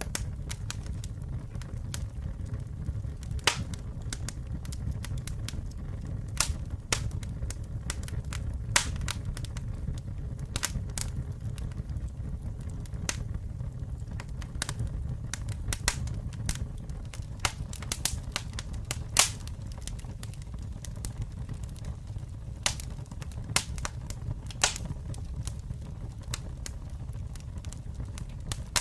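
Campfire burning, with a steady low rumble of flames and irregular sharp crackles and pops from the burning wood, a few of them much louder than the rest.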